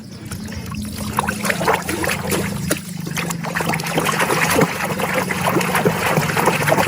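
Water trickling and splashing over a muddy plastic animal toy as it is rinsed clean, with small taps and knocks of the toy. The water gets louder about halfway through.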